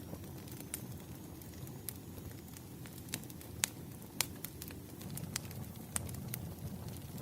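Campfire crackling: irregular sharp pops of burning wood over a low steady rumble of flames, with the loudest pop about halfway through.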